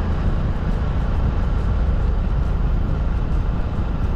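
Steady low rumble of a vehicle on the move, with road and wind noise and no distinct events.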